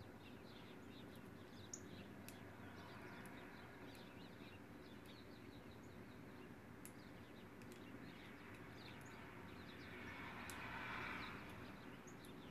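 Faint outdoor ambience through an open window, with faint scattered bird chirps and a few tiny clicks. A soft swell of broad noise rises and fades about ten seconds in.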